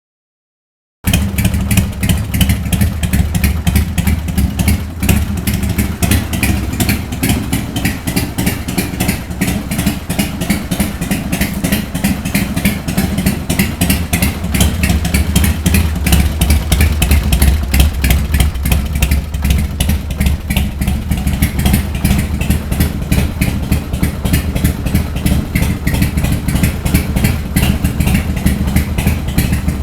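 1999 Buell X1 Lightning's 1203 cc air-cooled V-twin running loud through Big Bad Pup aftermarket exhaust pipes, idling with a rapid, even exhaust pulse that comes in abruptly about a second in.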